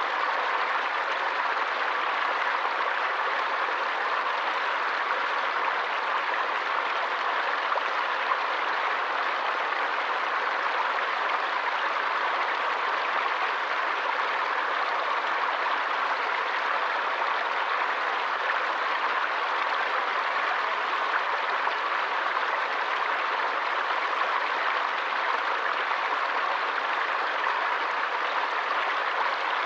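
Forest stream or small waterfall flowing steadily, an even rushing hiss of water.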